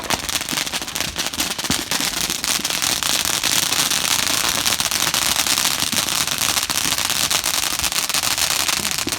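Fireworks crackling: a dense, rapid crackle of many small pops that starts suddenly and keeps on steadily.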